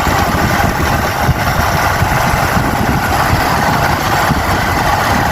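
Motorcycle running steadily while being ridden along the road, with wind rushing over the microphone.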